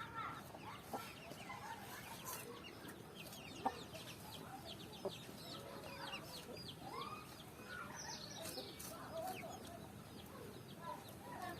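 Mother hen clucking softly while her chicks peep continuously in quick, high, falling chirps. Two sharp clicks stand out, about three and a half and five seconds in.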